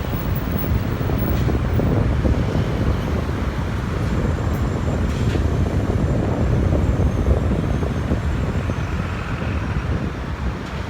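Loud, steady low rumble of an aircraft's jet engines, mixed with wind buffeting the microphone.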